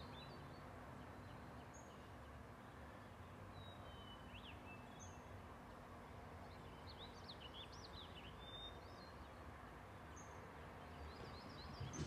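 Quiet outdoor ambience: a faint steady hiss with distant birds chirping, a few short high chirps about four seconds in and a small cluster of them around seven to eight seconds.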